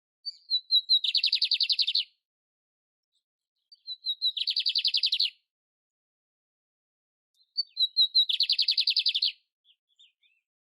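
Canário império singing three short phrases a few seconds apart. Each phrase is a couple of high thin notes leading into a rapid trill about a second long.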